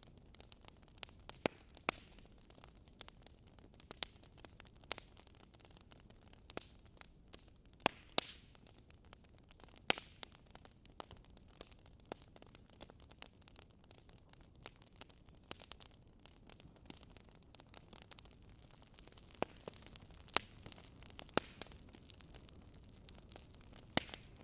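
Wood fire burning: firewood crackling and popping at irregular intervals over a soft steady hiss.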